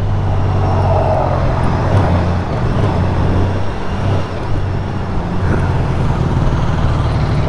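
2018 Honda Gold Wing's flat-six engine running steadily at low speed in traffic, mixed with the noise of surrounding cars and the road.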